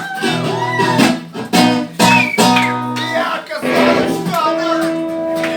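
Acoustic guitar strummed in steady chord changes, with a voice singing over it.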